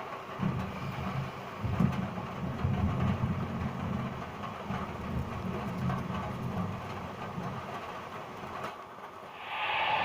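Distant thunder rolling in uneven surges of low rumble, dying away a couple of seconds before the end. Music fades in right at the end.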